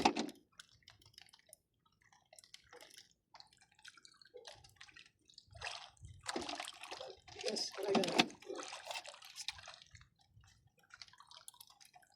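Water splashing and dripping in irregular bursts, with a denser stretch of sloshing from about six to ten seconds in.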